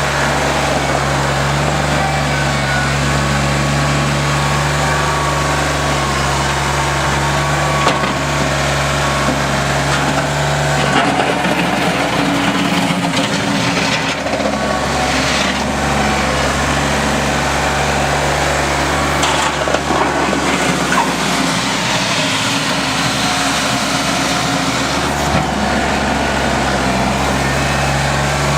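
Kubota L3410 tractor's diesel engine running steadily. Its note changes for a stretch in the middle and settles back near the end.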